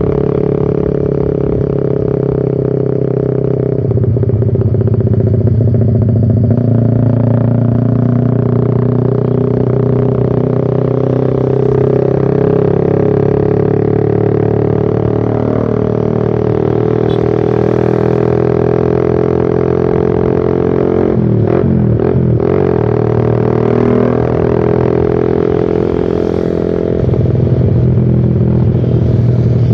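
Suzuki Satria FU Fi motorcycle's single-cylinder four-stroke engine, very loud through a short Pro Liner aftermarket muffler with the dB killer removed, heard while riding. The engine note rises and falls with the throttle and gear changes, with a brief dip a little past two-thirds through.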